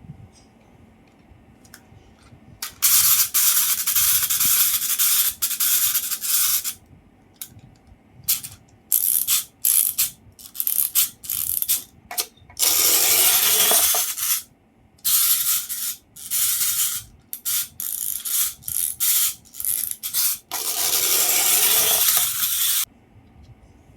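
A toy vehicle's small plastic gear mechanism whirring and ratcheting in bursts. There is one long run a few seconds in, then many short spurts and two more long runs, stopping shortly before the end.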